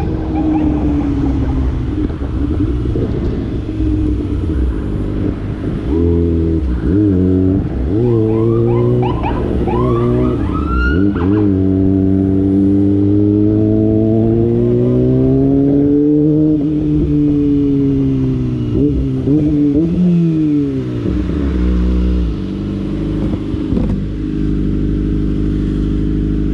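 Kawasaki ZX25R's 250 cc inline-four engine under way: it runs steadily, then from about six seconds in revs up through several quick gear changes, each a rising note that drops back. It then holds a slowly climbing pitch, eases off and falls back to a steady low idle about two-thirds of the way through.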